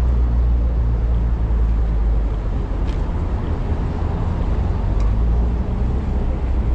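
Steady low rumble of wind buffeting the microphone on a moving bicycle, mixed with downtown traffic noise. Two faint clicks come in the middle.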